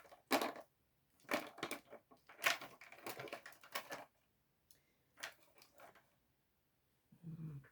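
Rummaging through card-making supplies: a string of irregular crinkling and clattering handling noises with short quiet gaps, busiest in the first half.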